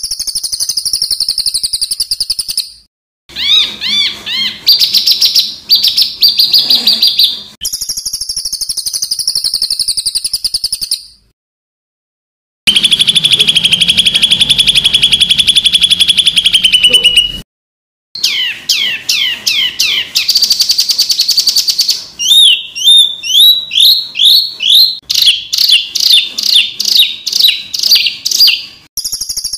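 Edited run of songbird song clips of the masteran kind: high, fast-repeated harsh notes, trills and quick falling whistled sweeps. The clips are joined by abrupt cuts to dead silence, three times.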